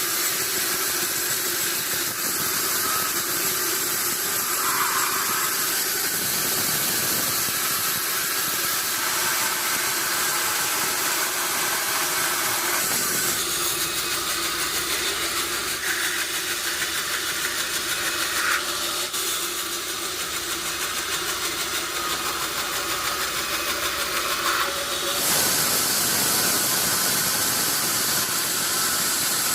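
Sawmill machinery running, a steady loud mechanical din with hiss. The sound changes abruptly about 13 seconds in and again about 25 seconds in.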